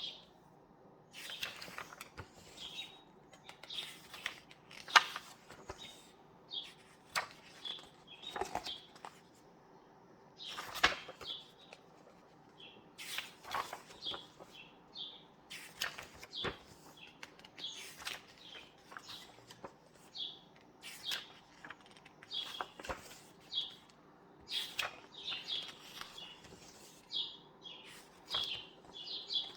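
Paper pages of a book turning and rustling in quick, repeated flips, with small birds chirping throughout.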